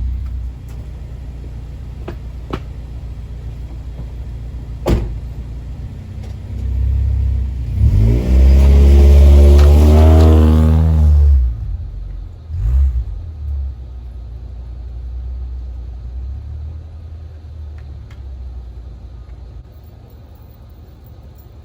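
Lifted AWD Honda CR-V's engine pushing into deep snow: running low with a sharp knock about five seconds in, then revving hard, rising in pitch and held for about three and a half seconds before dropping back. Two short blips of throttle follow, then it settles to a quieter run.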